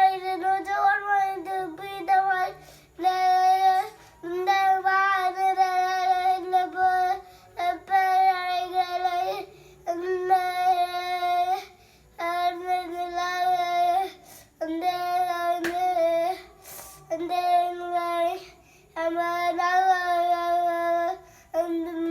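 A child singing alone without accompaniment in a high voice, holding long steady notes in short phrases with brief breaths between them.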